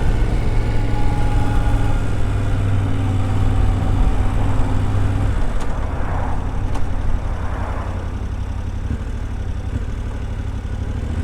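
Yamaha Ténéré 700's 689 cc parallel-twin engine running steadily as the motorcycle is ridden, its note easing off about five seconds in.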